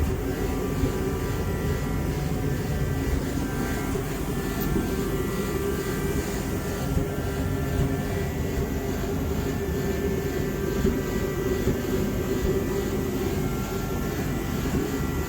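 A steady mechanical drone with a low rumble and several held tones above it, unchanging throughout.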